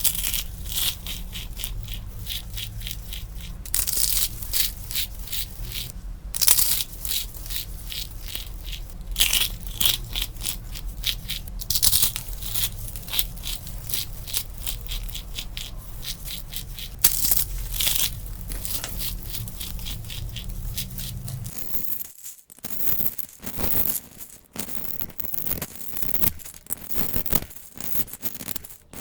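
Dried soap being crushed, a dense run of crackling crunches. About 22 s in a low background hum drops out and the crunching continues more sparsely.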